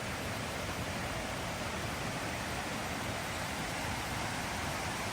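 Steady rushing of the Ouzoud waterfalls: an even, unbroken wash of falling water.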